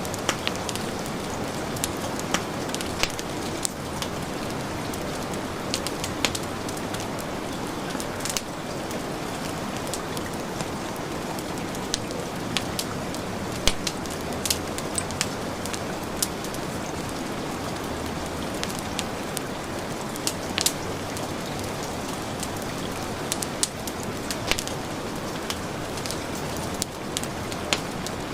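Heavy rain falling steadily, with a wood fire crackling in short, sharp pops at irregular moments.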